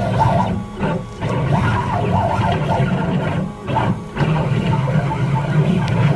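CNC machine's stepper motors driving a drag knife through foam board, a steady mechanical whine that dips briefly a few times as the motion changes.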